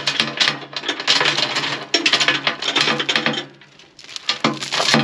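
Steel logging chain rattling and clinking in quick, uneven runs as it is handled and wrapped around a tractor loader bucket, with a steady low hum underneath.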